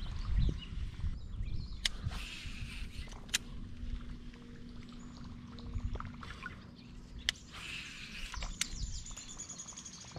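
Birds calling with chirps and short trills, over a low rumble, with a few sharp knocks.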